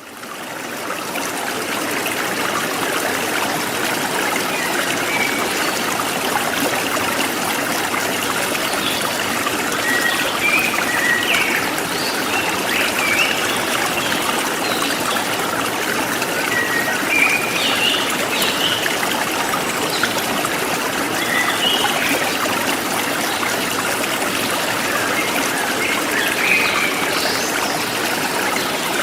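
Forest stream flowing steadily, fading in over the first couple of seconds. Birds chirp now and then over it in short high calls.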